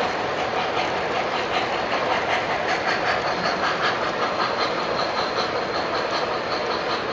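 Model trains running on a layout: a steady rumble of small motors and wheels with a fast, regular clicking of wheels over the track joints.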